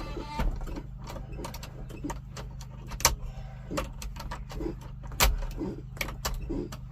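Car engine idling steadily, with scattered sharp clicks and knocks over it, the loudest about three seconds in and again a little past five seconds.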